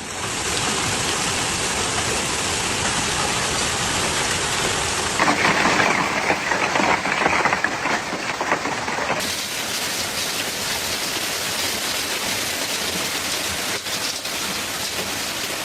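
Heavy rain pouring and drumming on surfaces, a dense steady hiss. The sound changes abruptly about five and nine seconds in, louder and denser in between.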